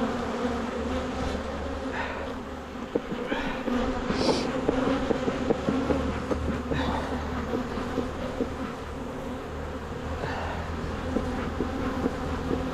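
Honeybees buzzing in large numbers around an open hive, a steady dense hum with small clicks of frame handling mixed in. The colony is agitated and defensive, stinging the beekeepers.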